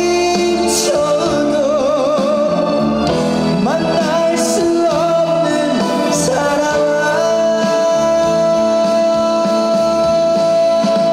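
A man singing a song live over musical accompaniment, with wavering vibrato on his notes. A long note is held through the second half.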